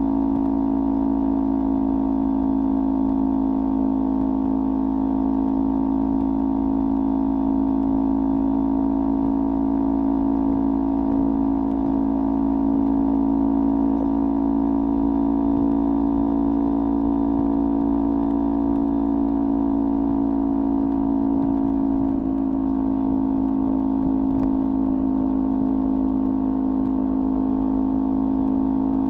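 Kawasaki Ninja 400 parallel-twin engine through a LeoVince aftermarket exhaust, running at a steady engine speed with a constant, droning pitch, shifting only slightly about two-thirds of the way through.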